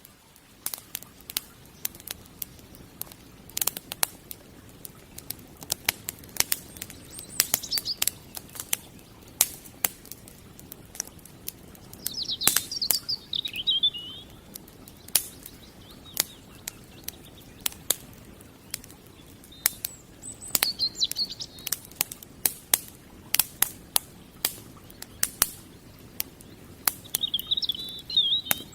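Wood fire crackling, with irregular sharp pops and snaps throughout. Small birds chirp in short bursts several times.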